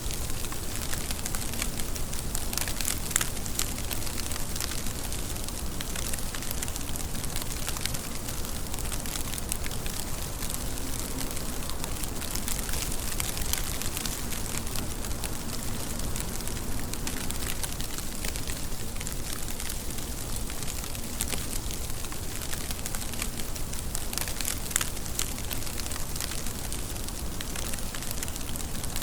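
Steady rain falling, with a dense mix of sharp, close drop ticks over an even hiss.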